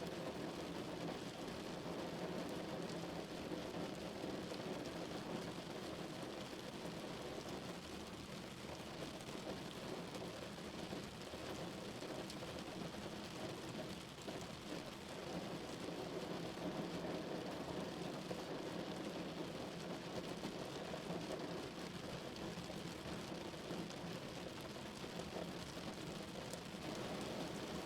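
Steady rain falling on a car's roof and windows, heard from inside the vehicle as an even, muffled patter.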